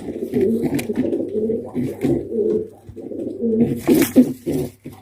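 Pigeons cooing in repeated low, throbbing phrases, with a brief noisy burst about four seconds in.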